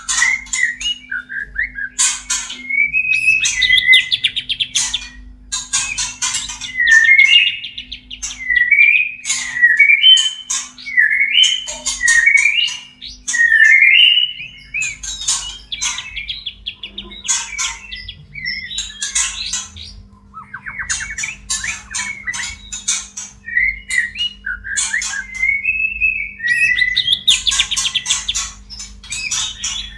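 White-rumped shama (murai batu) in breeding condition, calling and singing without pause: quick whistled phrases that slide up and down, mixed with harsh clicking and rasping notes. A faint steady hum sits underneath.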